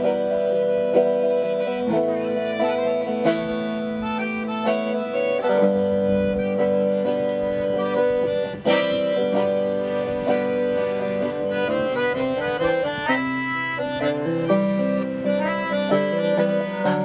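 Live instrumental duet of accordion and guitar: the accordion holds chords under a moving melody while the guitar plucks notes.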